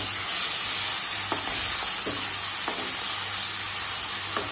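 Chopped tomato sizzling in hot oil in a stainless steel kadai, the steady sizzle of fresh wet tomato hitting the oil. A spatula stirs through it, scraping the pan a few times.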